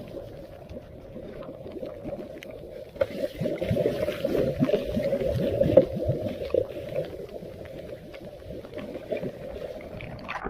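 Floodwater splashing and sloshing in irregular bursts around a clogged storm drain, sounding muffled.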